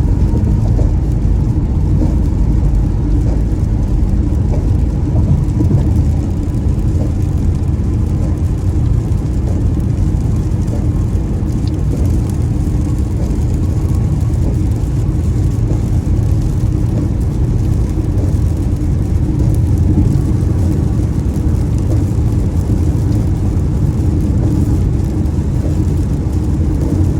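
A car driving along at a steady speed: a constant low rumble of engine and road noise with no change in pace.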